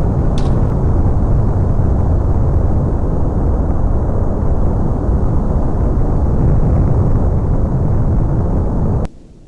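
Loud, steady rumble of a large aircraft engine running, with a short click just under half a second in. The sound cuts off suddenly about nine seconds in.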